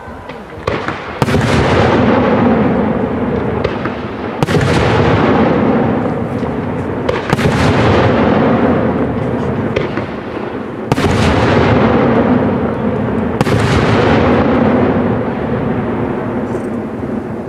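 Aerial firework shells bursting, about six sharp bangs a few seconds apart, each trailing off in a long echoing decay.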